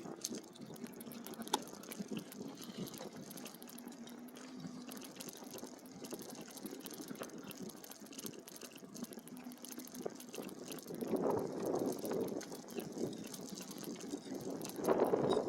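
Outdoor riverside ambience: a steady wash of moving water with small clicks, and a breeze gusting over the microphone in swells from about eleven seconds in.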